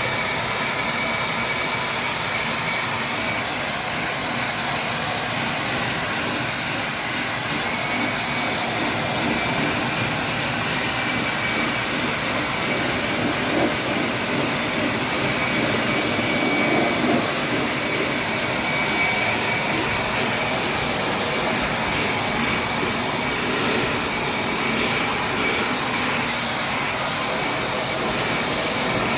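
Air-conditioner cleaning equipment running steadily: a loud, even rushing hiss with a faint thin whine in it.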